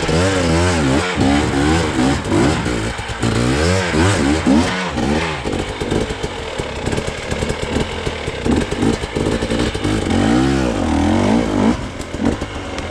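Off-road motorcycle engine revved up and down again and again, the throttle opened and closed in repeated surges as the bike works its way up a difficult trail climb.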